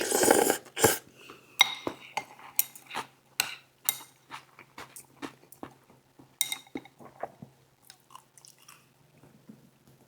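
Close-miked eating sounds: a short noisy rush at the start, then chewing with wet mouth smacks and clicks that thin out toward the end.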